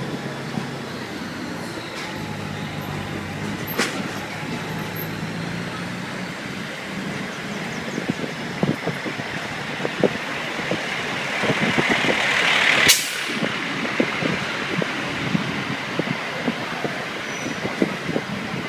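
Motorcycle running at low speed with street noise, its engine hum steady at first. About thirteen seconds in, a loud hiss builds for a second and cuts off sharply.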